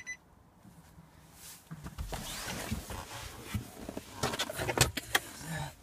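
Handling noise inside a car cabin: rustling and shuffling, with a few sharp clicks of interior trim or controls about four to five seconds in.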